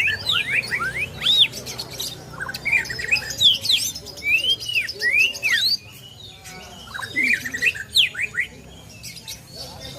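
Greater green leafbird (cucak ijo) singing: rapid phrases of varied chirps and arching, up-and-down whistled notes. The song goes quiet about six seconds in, then comes back in another short burst.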